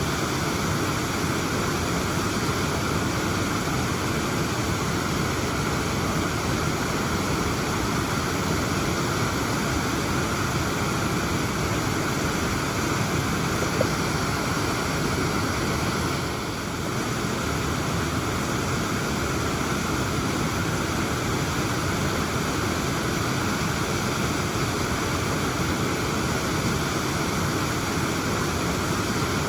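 Waterfall: a steady, even rush of falling water, briefly a little softer about halfway through.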